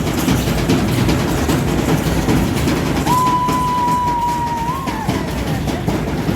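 Steady dense rumbling noise with faint clatter throughout, and a single high held tone starting about three seconds in that lasts about two seconds and ends with a slight upward bend.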